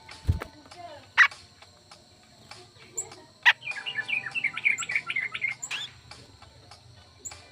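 Birds chirping. Two loud, sharp single calls come first, then a rapid run of chirps about halfway through that lasts about two seconds. A dull low thump sounds right at the start.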